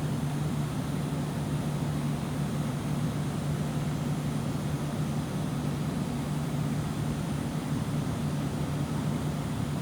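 Bryant ductless mini-split air conditioner running, a steady low hum over even fan noise.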